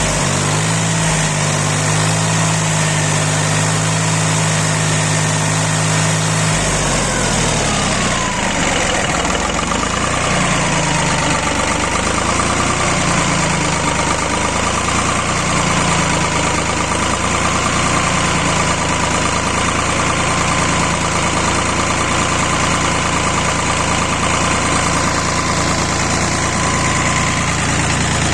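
D-130 tractor diesel engine running steadily. About six seconds in its note changes, and a whine slides down, wavers and then holds steady.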